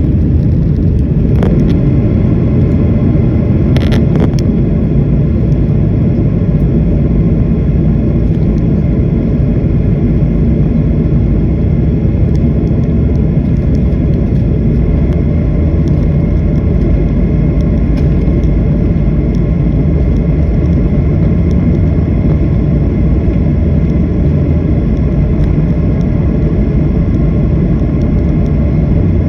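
Jet airliner running with a steady, loud rumble, with short knocks about one and a half and four seconds in.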